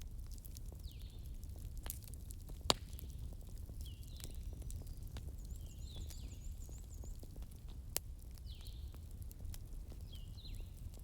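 Wood fire crackling: a low steady rumble with scattered sharp pops, the loudest about three seconds in and another near eight seconds. Faint high chirps repeat every second or two behind it.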